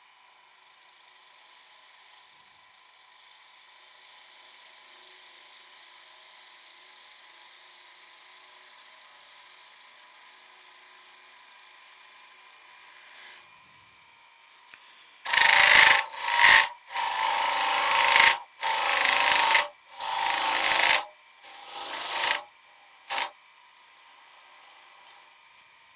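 Wood lathe running with a faint steady hum, then a tool cutting into the spinning wood in about six loud, harsh passes of a second or less each over the second half, ending with one short touch.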